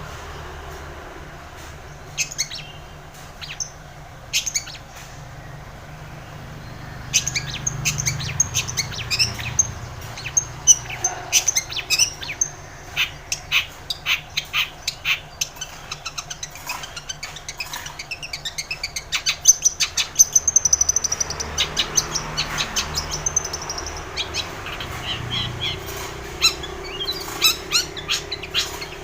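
Long-tailed shrike singing: a fast chattering run of short, sharp notes, with only a few scattered notes at first and a continuous stream from about seven seconds in.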